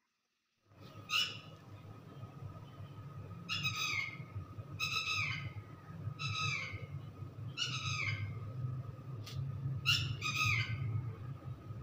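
Short bird calls, each falling in pitch, repeated about once a second over a steady low hum and a thin steady high tone; they start after a brief total silence.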